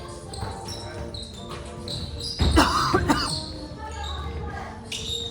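Basketball game in a gym: a ball bouncing on the hardwood, sneakers squeaking, and a loud cluster of thuds with a brief shout about two and a half seconds in.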